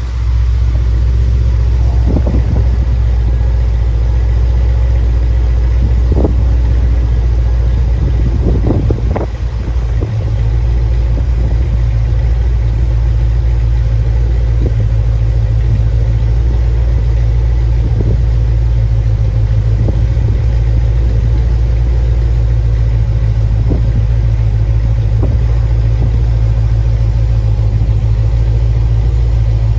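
HSV Clubsport R8's 6.2-litre LS3 V8 idling steadily with a deep, even rumble. A few brief clicks sound in the first ten seconds.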